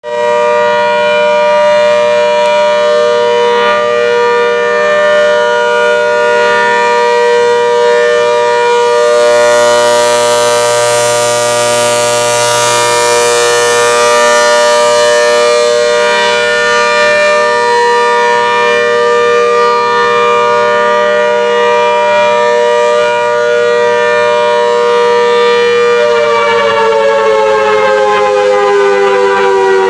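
Hurricane warning siren sounding a loud, steady tone of several pitches at once. About 26 seconds in it begins winding down, its pitch falling.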